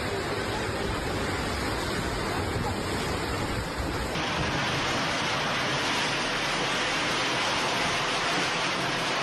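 Steady rushing noise of storm wind and rain, with an abrupt change about four seconds in, after which it is fuller and brighter.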